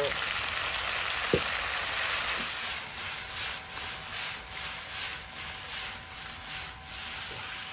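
Chicken pieces sizzling in hot oil in an iron wok as soy sauce is poured in, with one sharp tap a little over a second in. From about two and a half seconds the sizzle swells and fades about three times a second as the pieces are stirred with chopsticks.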